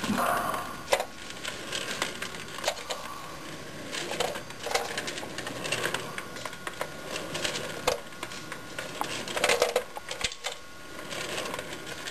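Paint containers being rummaged through and handled, knocking against each other in irregular small clicks and clatter with some rustling.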